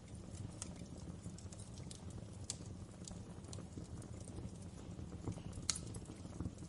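Wood fire crackling in a fireplace: scattered sharp pops and snaps over a low steady rumble, with the loudest pop near the end.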